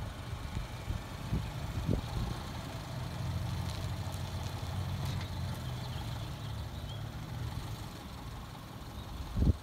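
A Subaru sedan's engine running at low idle as the car creeps into a parking space, a steady low hum. Near the end a few loud low thumps break in.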